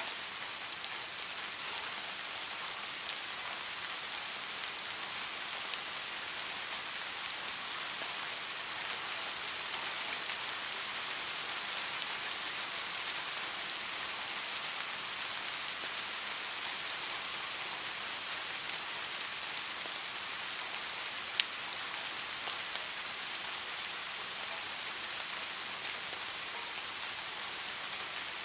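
Steady rainfall, an even hiss of rain with scattered individual drop ticks, and one sharper drip about two-thirds of the way through.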